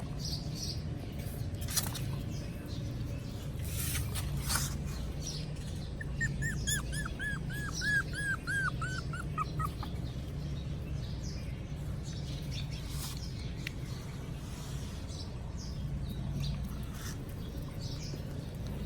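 Hungry puppy whimpering: a quick run of about fourteen short, high, squeaky whines, roughly four a second, starting about a third of the way in. Fainter squeaks and clicks come and go around it.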